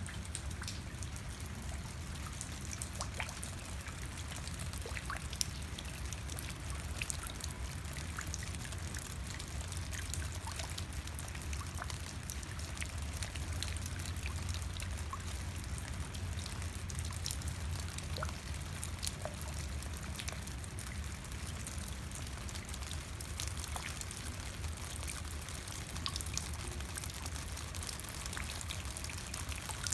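Steady rain, with many scattered drops ticking and water trickling and pouring as it runs off.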